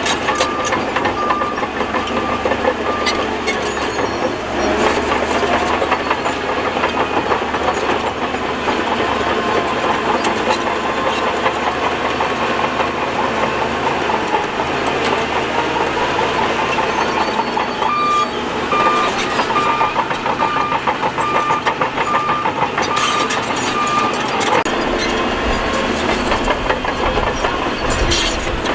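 A Shantui DH17C2 bulldozer working rock and dirt: its engine running under load with steady clanking and clatter of tracks and stone. A reversing alarm beeps evenly at the start and again for several seconds from about two-thirds of the way in.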